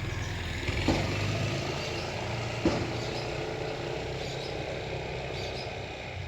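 Steady low hum of an idling motor vehicle engine, with two short knocks about a second and nearly three seconds in.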